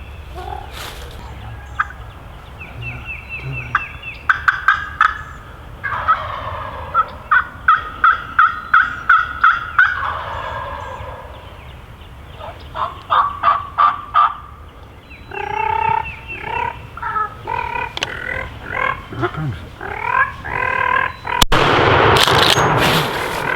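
Wild turkeys calling at close range: runs of evenly spaced yelps and quick clucks, with gobbling. Near the end a sharp crack is followed by about two seconds of loud rushing noise.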